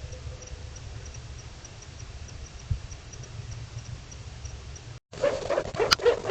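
Low hiss and rumble with faint, regularly repeating high ticks. After a brief cut about five seconds in, a run of loud animal calls begins, yelping notes that rise and fall quickly in pitch.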